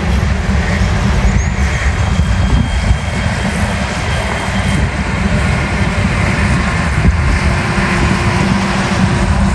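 Heavy diesel machinery, such as a bulldozer, running steadily with a deep rumble.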